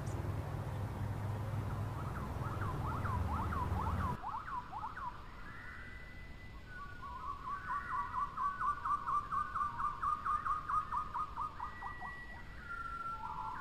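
Fast repeated gliding bird calls over a low rumble. After a cut, clear siren-like whistling with a fast warble of about five pulses a second, ending in held notes that step down in pitch.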